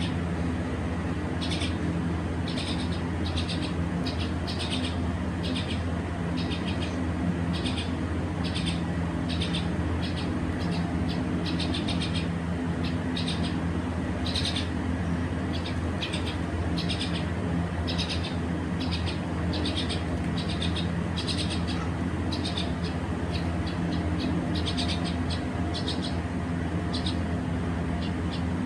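Pet bird chirping over and over, short high chirps about one or two a second, over a steady low hum.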